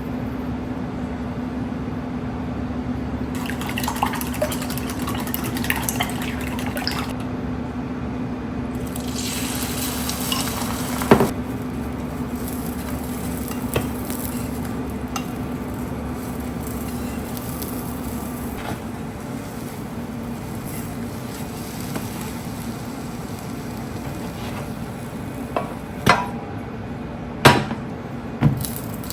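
Home kitchen cooking sounds: scattered clinks and knocks of utensils against pans and dishes over a steady low hum. The hum fades out about two-thirds of the way through, and a few sharp clatters come near the end.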